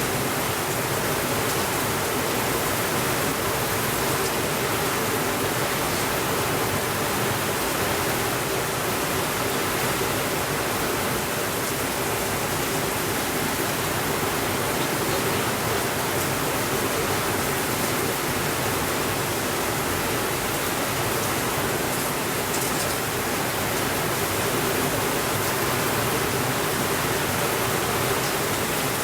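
Steady rainfall, an even hiss that does not rise or fall and has no thunder, with a few faint high ticks now and then.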